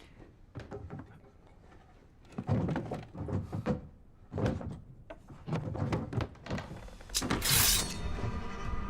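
A series of irregular thuds and knocks, then a brief hissing swish about seven seconds in, with soundtrack music beginning just after it.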